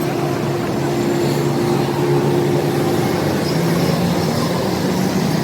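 A motor running steadily with a hum, its pitch shifting slightly partway through.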